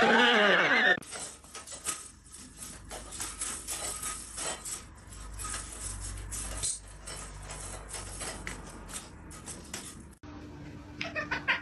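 A loud animal cry falling in pitch, then several seconds of scattered light clinks and clatter like dishes and cutlery being knocked about. It cuts off abruptly near the end.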